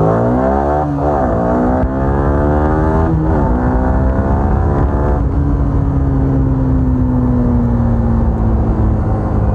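Yamaha R15 V3's single-cylinder engine accelerating hard, its note rising in pitch and dropping at upshifts about one and three seconds in. After about five seconds it settles into a steady cruise with a slowly falling note.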